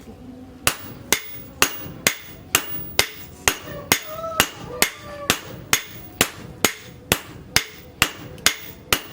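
Steady, even hammer blows on steel over an anvil, a little over two a second, some with a short metallic ring: forging the steel of a tractor disc plough into a machete blade.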